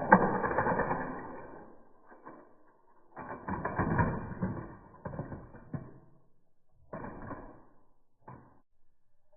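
Hot Wheels die-cast cars and a plastic play set clattering in several bursts, with sharp clicks.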